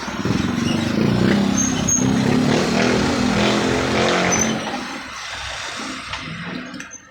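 Yamaha Mio Sporty scooter's small single-cylinder engine running loudly, held up at revs for about four seconds, then dropping back about five seconds in and dying away near the end.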